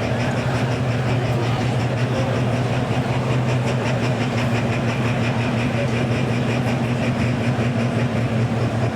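Diesel semi truck engine running hard at a steady pitch, loud and even throughout, with a fast rapid flutter over its low drone.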